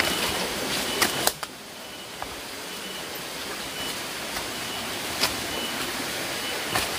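Steady rushing noise of flowing stream water. It drops to a quieter hiss about one and a half seconds in, with a few sharp clicks scattered through it.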